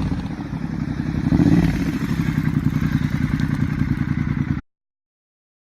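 Motorcycle engine idling through its exhaust with a quick, even pulsing beat, and a short rev blip about a second and a half in. The sound cuts off abruptly near the end.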